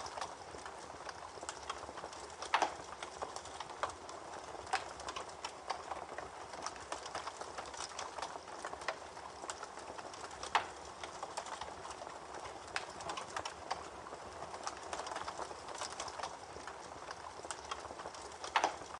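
Campfire crackling: a steady hiss broken by irregular snaps and pops, a few louder ones standing out. It cuts off suddenly at the end.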